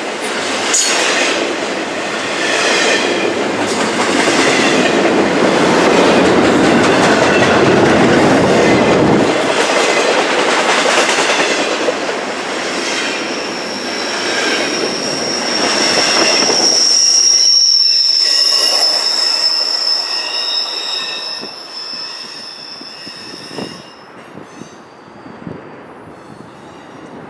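CSX double-stack intermodal freight cars rolling past, a loud rumble and rhythmic clatter of wheels on the rails. As the end of the train goes by about two-thirds in, the rumble drops away and a steady high-pitched wheel squeal carries on for several seconds, fading as the train moves off.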